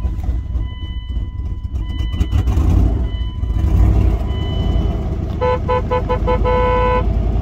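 Dodge Durango's 5.9-litre Magnum V8 running just after catching on its first start after sitting 14 years, revving up about three seconds in and then settling, with a miss from an arcing spark plug wire. Near the end a beep sounds five short times and then once longer.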